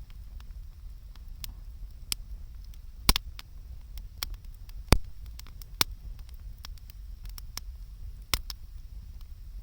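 Wood fire crackling: irregular sharp pops and snaps, the loudest about three and five seconds in, over a low steady rumble.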